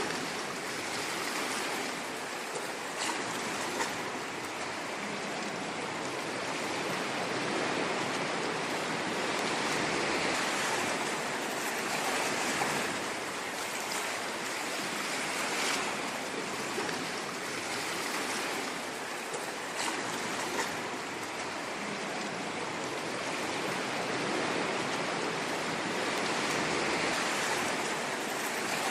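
Ocean waves washing ashore: a continuous rushing surf that swells and eases every few seconds.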